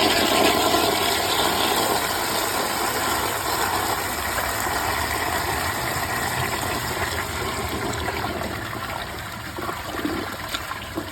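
2018 Mansfield Summit dual-flush toilet flushing from a tank filled to the water line, its siphon jet partially blocked with a bottle cap. The flush starts suddenly as a loud rush of water and slowly tapers off.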